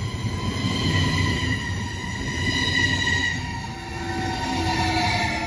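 SBB double-deck electric train rolling along a station platform: a steady rumble with several high whines that slowly slide up and down in pitch.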